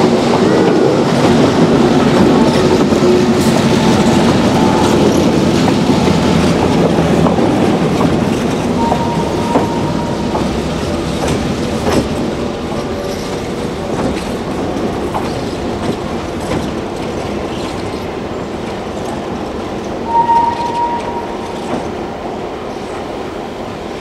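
Santa Cruz Big Trees & Pacific passenger coaches rolling past on the track, their wheels clacking over the rails with a few brief, high wheel squeals. The rolling noise is loudest at first and fades steadily as the train moves away.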